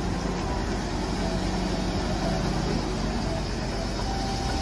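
Diesel engine of a Hyundai HW160 wheeled excavator running steadily as it digs and swings a bucket of soil.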